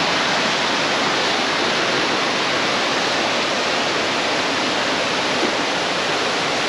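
Loud, steady rush of a mountain waterfall, water pouring and splashing without a break.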